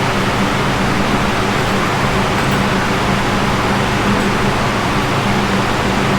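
Polaris Slingshot's four-cylinder engine running steadily through a new Thermal R&D cat-back exhaust, with a steady low hum under a loud, even rush of noise.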